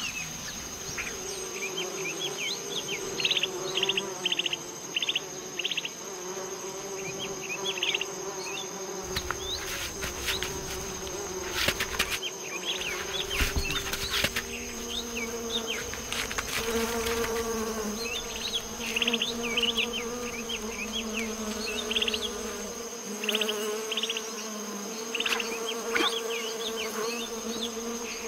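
Flies buzzing, a steady drone that shifts to a higher pitch about halfway through. Short high chirps come throughout, with a few knocks near the middle.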